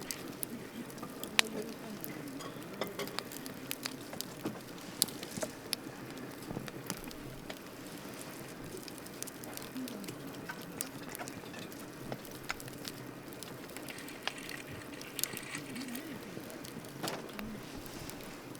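Wood campfire crackling, with irregular sharp pops and snaps over a steady low background.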